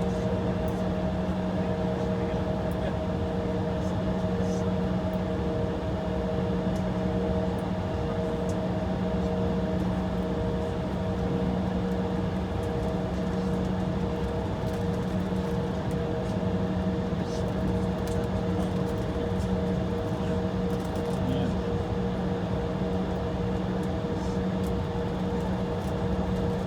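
Steady hum inside an Embraer E175 jet cabin with its engines idling and the air conditioning running, a few steady tones held over an even rushing noise.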